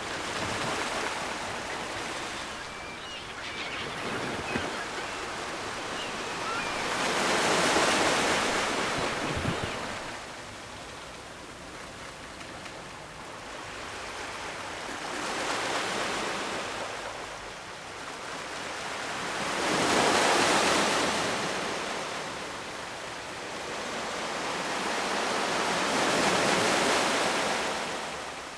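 Ocean surf: waves breaking and washing in, rising and falling in surges every four to six seconds.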